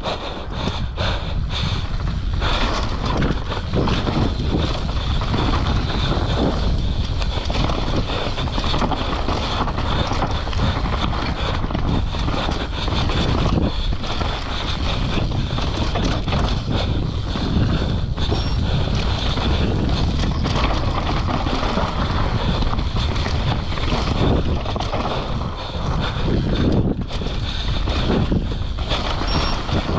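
Wind buffeting the microphone of a mountain biker's point-of-view camera, along with knobby tyres rolling over dirt and rocks and the bike knocking and rattling as it descends a trail at speed.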